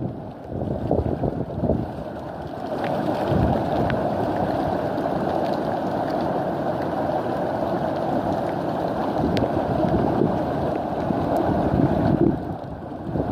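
Wind blowing across the microphone: a steady rush of noise with a few faint clicks.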